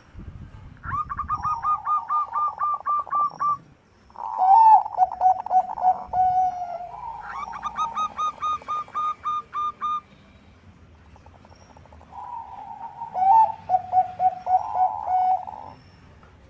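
Bangkok perkutut (zebra doves) cooing: four phrases of fast, evenly repeated staccato notes, at times two birds at different pitches overlapping, with short pauses between phrases.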